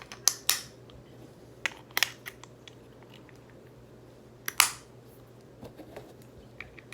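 Several sharp clicks and brief rasping scrapes, loudest about half a second in and again about four and a half seconds in, over a faint steady low hum.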